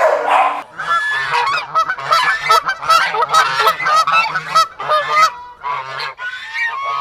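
A group of animals calling over one another: many short pitched calls in quick succession, starting about half a second in and running on.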